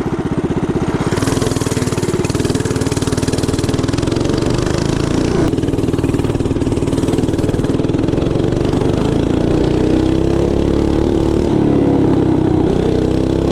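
Mini bike's small engine running loud with its muffler fallen off, open exhaust with rapid even firing, revving up and down with a rise near the end. The rider says it is two-stepping and popping with the muffler gone.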